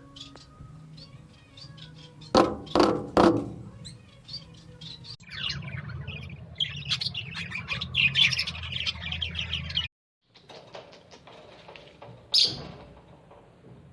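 Birds chirping, with three loud calls about two seconds in and one sharp high call near the end. The sound cuts out for a moment about ten seconds in.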